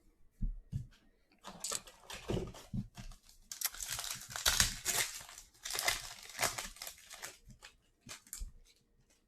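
A sealed trading-card pack wrapper being torn open and crinkled by hand, with a few light knocks at first, then several seconds of crackling plastic that is loudest about halfway through.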